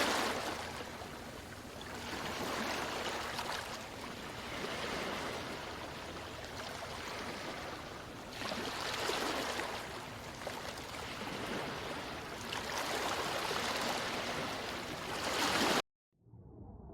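Rushing water, swelling and fading every few seconds, cutting off abruptly near the end.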